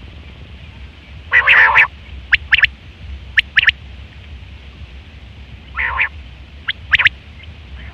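Common quail calling twice, each time a harsh, buzzy note followed by a few short, sharp notes.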